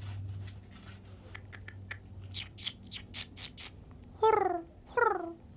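Animal calls: a run of short, high rising chirps, then, from about four seconds in, two falling cries in a row.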